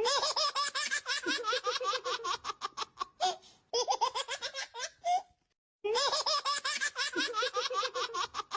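Baby laughing in quick, rhythmic bursts of giggles; the laugh pauses about five and a half seconds in, then the same laugh starts over.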